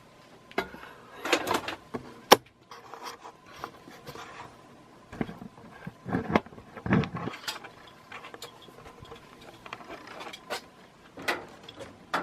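Irregular handling noises: clicks, knocks and rubbing, with one sharp click a little over two seconds in, as the fan's cord and two-prong plug are handled.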